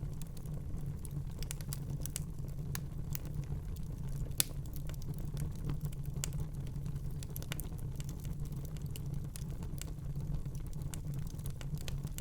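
Wood fire crackling in a fireplace: irregular small snaps over a steady low rumble of the flames, with one sharper pop about four and a half seconds in.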